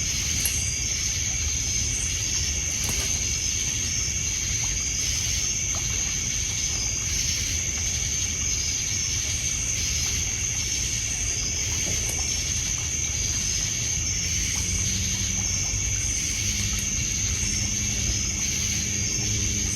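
Night insects, crickets among them, chirring: a high steady trill with quick repeated chirps over it, over low lapping water and a few faint crackles from a wood campfire. A low steady hum joins about three-quarters of the way through.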